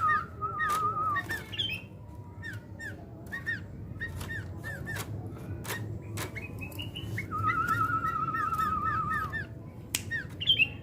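Sooty-headed bulbul (kutilang) calling: a string of short, quickly hooked chirps, with a brief wavering trill at the start and a longer one about seven seconds in. Sharp clicks are scattered through it.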